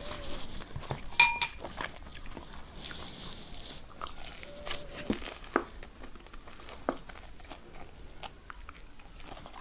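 A person chewing and biting food close to the microphone, with scattered small mouth clicks. There is a short ringing clink about a second in.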